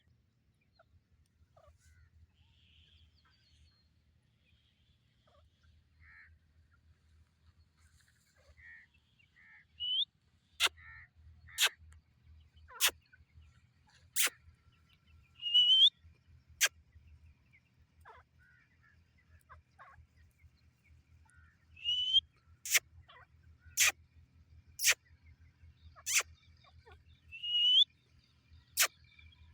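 Teetar (francolin) calling: a few short rising calls mixed with sharp, clicking notes in two bursts, the first about ten seconds in and the second a little past twenty seconds, with a faint low hum underneath.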